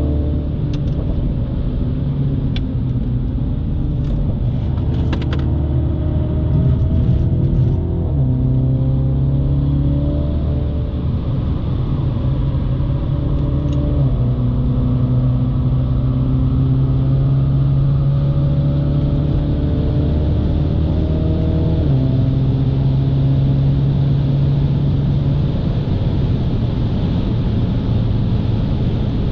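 A 2018 MINI John Cooper Works's turbocharged four-cylinder engine running hard under acceleration, heard from inside the cabin with tyre and road noise. Its pitch climbs steadily and changes sharply at about 8 and 22 seconds as the gears change.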